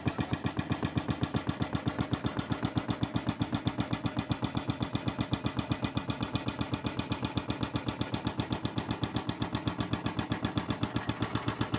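Hydraulic breaker on a CAT 320C excavator hammering concrete in a rapid, steady train of blows, with the excavator's diesel engine running under it.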